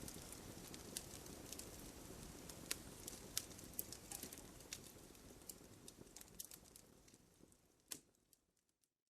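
Wood fire in a fireplace crackling, with sharp pops over a low rumble of burning logs. It fades out toward the end, with one louder pop just before it dies away to silence.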